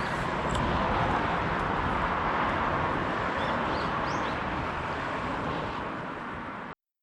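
Steady rushing outdoor noise with a few short high chirps about four seconds in, cutting off abruptly near the end.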